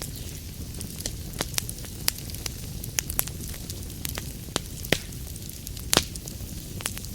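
Wood fire burning in a fireplace, with a steady low rumble and hiss and irregular sharp crackles and pops, the loudest pop about six seconds in.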